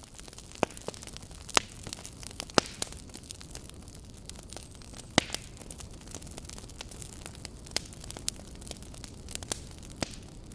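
Wood fire in a fireplace crackling over a steady low hiss, with irregular sharp pops, a handful of them louder than the rest.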